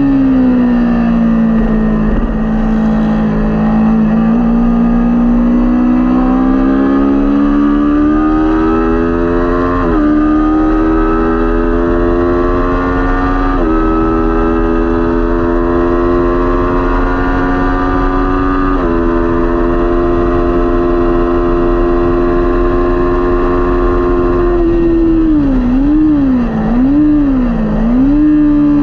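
Kawasaki Ninja 400 parallel-twin engine under hard acceleration: its pitch climbs and drops sharply with three upshifts, then holds steady at high revs. Near the end the throttle is rolled off and on a few times, so the pitch goes up and down.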